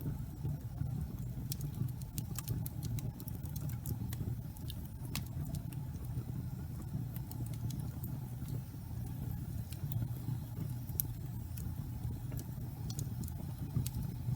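Wood fire burning slowly in a fireplace: a steady low rumble of flame with scattered sharp crackles and pops from the burning logs.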